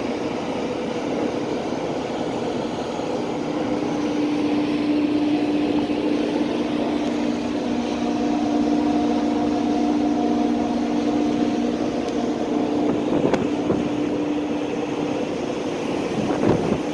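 Ferry's engines and machinery drone on board: a steady rushing noise with a low hum that grows stronger about three seconds in and holds. Two short knocks come near the end.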